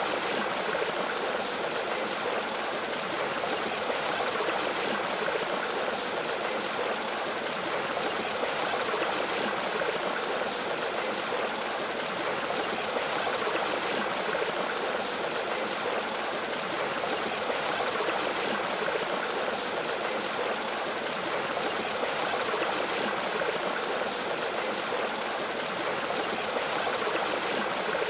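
Mountain stream flowing over rocks and a small waterfall: a steady, even rush of water.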